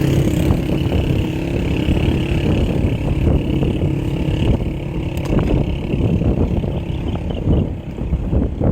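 Wind buffeting the microphone of a moving bike rider, a loud steady rumble, with a steady engine-like hum over it that fades out about halfway through.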